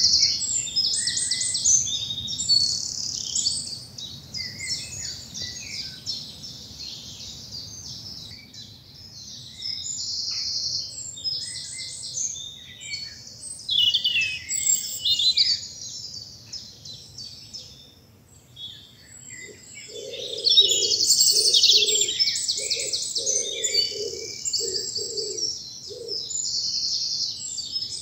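Several songbirds singing at once in a spring dawn chorus, in high, fast trills and warbles that overlap and come and go. From about two-thirds of the way through, a pigeon joins in, cooing low, evenly repeated notes.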